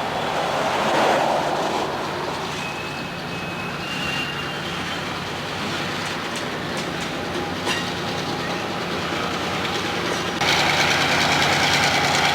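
Diesel freight train passing, its locomotive engine running with a steady drone under the noise of the rolling cars. There are brief faint wheel squeals, a few sharp clicks from the wheels over the rail, and the sound turns abruptly louder near the end.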